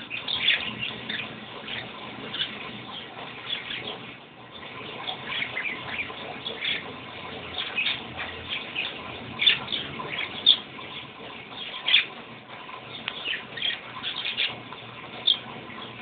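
Small cage birds giving many short, scattered chirps while they flap and scramble about in a pile of lettuce leaves, wings and leaves rustling under the calls.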